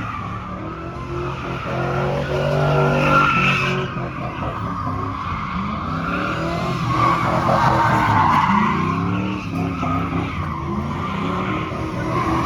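A vehicle doing a burnout: the engine is revved up and down repeatedly while the tyres squeal in a steady screech.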